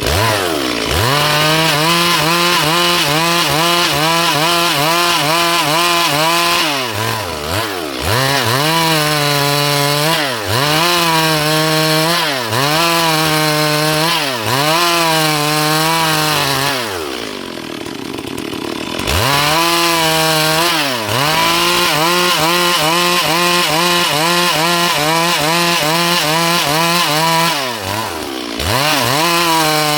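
Stihl MS 382 two-stroke chainsaw cutting dry wood at full throttle, its engine note dipping every couple of seconds as the chain bites into the cut and then recovering. A little past halfway it drops to idle for about two seconds, then revs up and cuts again.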